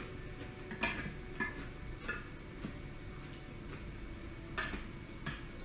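Faint, scattered light clicks and taps of eating utensils against a bowl, about five in all.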